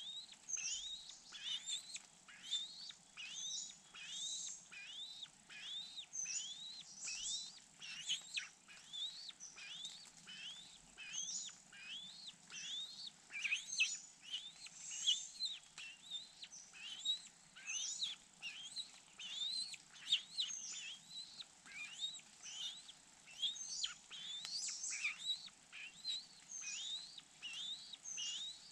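Bird calling: a steady run of short rising chirps, about two a second, with some higher notes mixed in.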